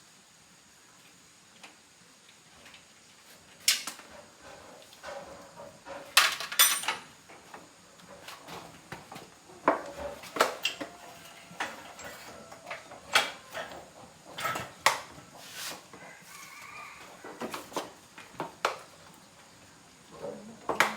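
Metal hand tools and engine parts clinking and knocking irregularly as a Win 110 motorbike engine is taken apart by hand.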